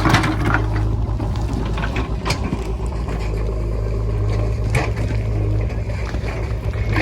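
Diesel engine of a JCB 3DX backhoe loader running steadily under load while digging, with a few sharp knocks of the bucket striking stone.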